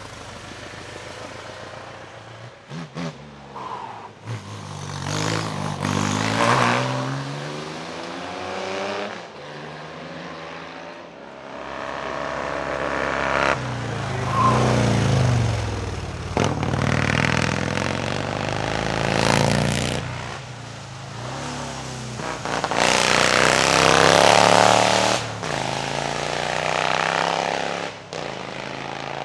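Vintage racing car engines revving hard under acceleration up a hillclimb, the pitch climbing and dropping repeatedly through gear changes and passes. A few sharp cracks come about three seconds in, and the engine sound is loudest near the end.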